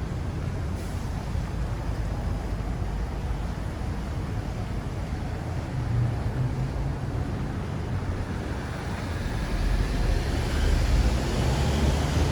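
City street traffic: a steady low rumble of vehicles, with a vehicle passing close and getting louder in the last few seconds.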